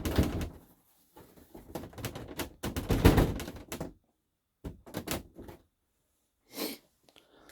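Plastic dash trim panel rattling, knocking and scraping as it is pulled and worked by hand, still held by screws. Two spells of dense clatter, then a few separate clicks and one short scrape.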